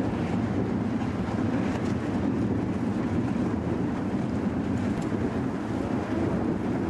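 Strong wind buffeting the microphone over rough sea, a steady rushing noise with waves and water sounds beneath it.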